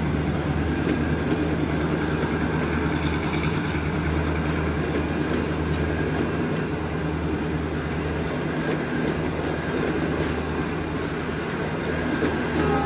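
Passenger coaches rolling past close by, steel wheels clicking over the rail joints over a steady rumble and low hum.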